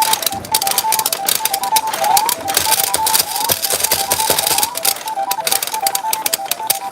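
Pachinko balls clattering continuously through a retro pachinko machine, with the machine's electronic beeping tune of short notes over it and a few quick rising bleeps about two and three seconds in.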